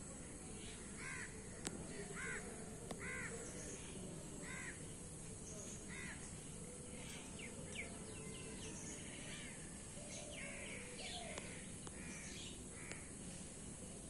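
Birds calling in the background over a steady outdoor hiss: short calls about once every second or two, coming thicker after about seven seconds.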